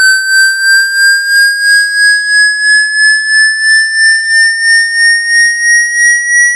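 Electronic water-eject tone played loud, slowly rising in pitch and pulsing about three times a second, used to vibrate droplets out of a phone's charging port and speaker.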